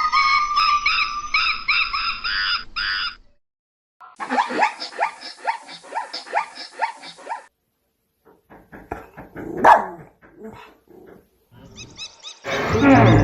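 A string of short animal-call clips separated by brief silences: rapid, high repeated calls, then a run of quick yelping calls, then scattered clicks and calls. A loud, deep call begins near the end.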